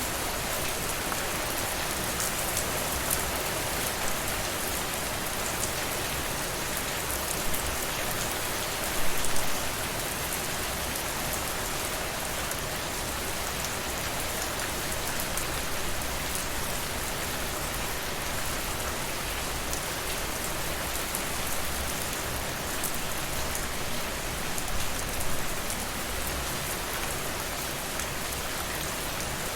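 Steady rainfall, a continuous hiss with many fine drops pattering on surfaces and a few louder splashes now and then, the largest about nine seconds in.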